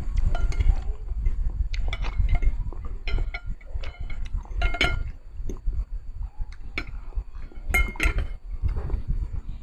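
Close-miked eating: repeated light clinks of utensils against a bowl, over the low, constant thud and rumble of mouth and chewing sounds.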